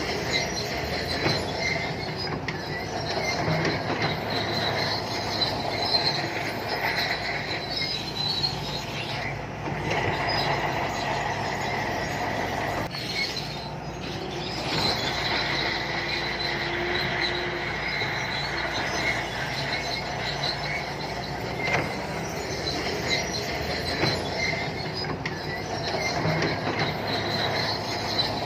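SANTUI crawler bulldozer at work: its diesel engine runs steadily under high, metallic squealing and clanking from the steel tracks.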